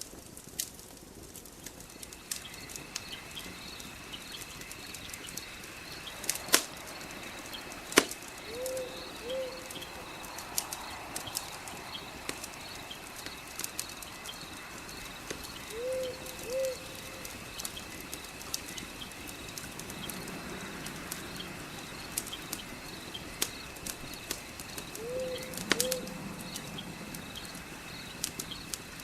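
Fireplace ambience: a wood fire crackling with scattered sharp pops, over a steady insect chirring. Three times, about 9, 16 and 25 seconds in, a bird gives a quick two-note call.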